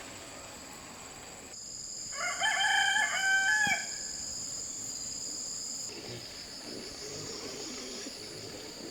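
A rooster crowing once, a single stepped call of just under two seconds starting about two seconds in, over a steady high-pitched hum.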